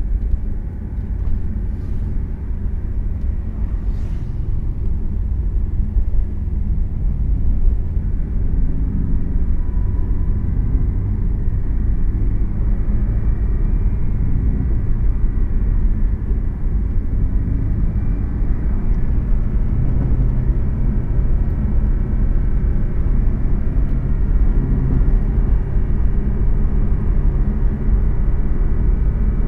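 Porsche sports car heard from inside the cabin while driving: a steady low engine and road drone whose pitch shifts as the speed changes. Two brief sharp clicks sound about two and four seconds in.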